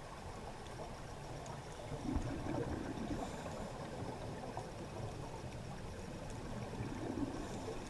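Steady rushing water noise, louder in two swells about two seconds in and near the end.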